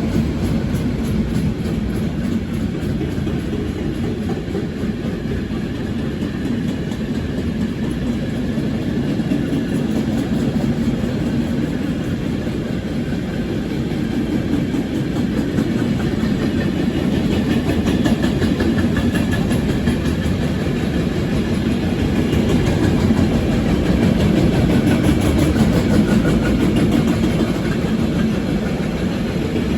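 Train running along the tracks: a steady rumble of wheels on rails, growing somewhat louder in the second half.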